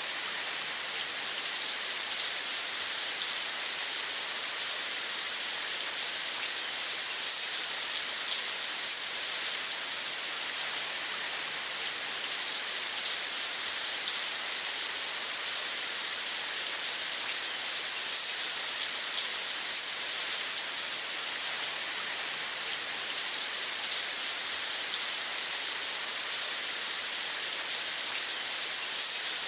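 Steady rain falling, an even hiss with a fine patter of drops that does not change.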